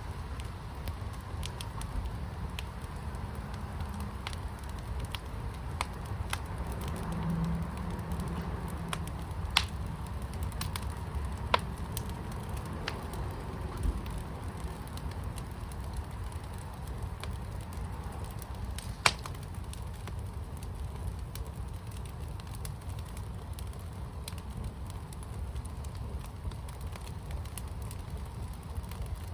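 Fire pit burning, a steady low rumble with scattered sharp pops and crackles, a few standing out louder.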